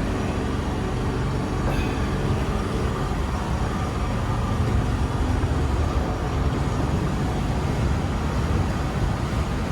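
Strong wind blowing steadily, with a low steady hum underneath that fades about halfway through.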